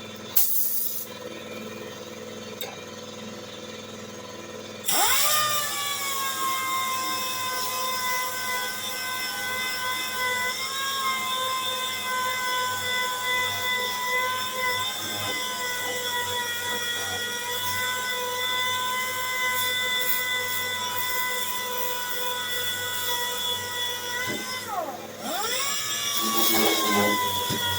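A power sander on a car's steel quarter panel spins up about five seconds in, rising to a steady high whine, and runs on as it sands the metal. Near the end its pitch dips sharply and then climbs back up.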